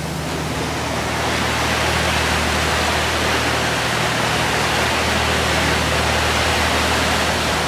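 A steady rushing noise that swells about a second in and then holds, over a low steady hum.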